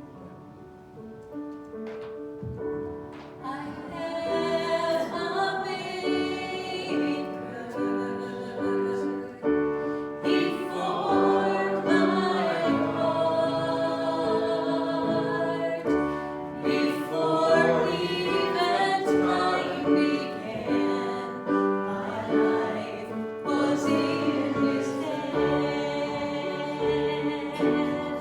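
Congregation singing a hymn with instrumental accompaniment. The voices come in about four seconds in, after a short instrumental introduction.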